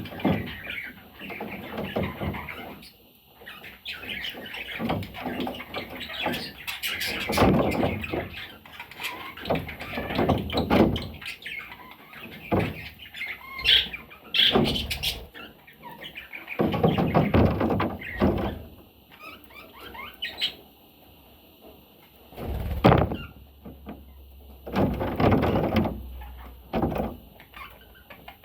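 Budgerigar chirping and chattering in irregular bursts, with short pauses.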